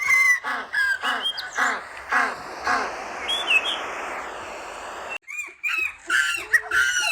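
Short, sharp chirping animal calls repeated about twice a second over a light hiss; about five seconds in the sound cuts abruptly to a different, quicker run of calls.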